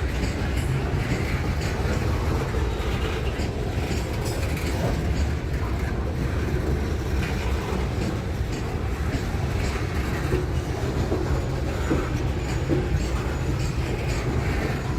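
A train's cars rolling past on the track: a steady, heavy rumble with faint clicks from the wheels over the rail joints.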